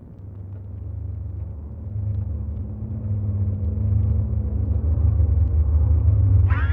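A deep, low rumble that swells steadily louder over several seconds, with a faint steady hum above it in the middle, then cuts off suddenly.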